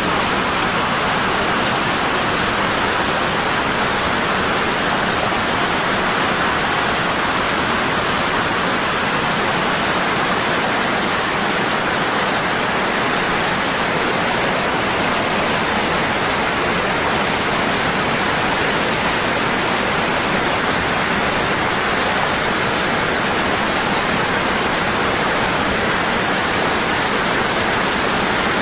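Waterfall falling hard and constant: a steady, unbroken rush of water.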